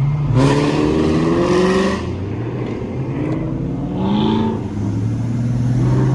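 Car engines revving and accelerating hard, twice: the pitch climbs over about a second and a half near the start, then climbs again about three seconds in. A steady low engine and road drone runs underneath.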